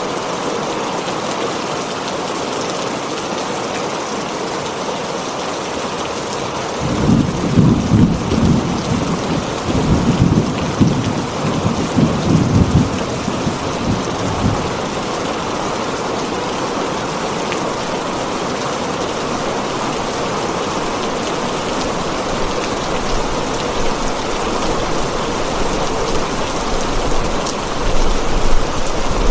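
Heavy rain falling steadily on a tin roof, with a rumble of thunder about a quarter of the way in that lasts several seconds.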